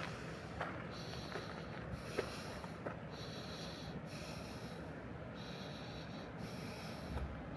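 Footsteps on a trail at an even walking pace, about one step a second, each a short scuffing crunch.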